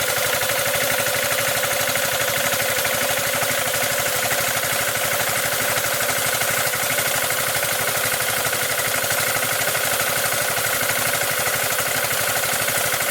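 Maruyama MS613 engine-driven power sprayer running steadily with a fast, even clattering knock. The owner traces the rattle to the sprayer pump's crankcase, not to the engine.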